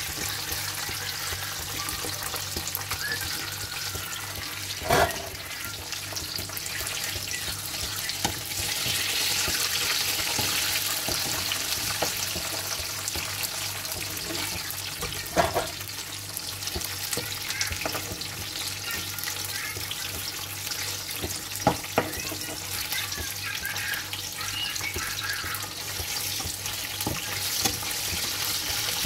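Battered chicken drumsticks deep-frying in hot oil in a pan: a steady sizzle, with a handful of sharp clicks of metal against the pan.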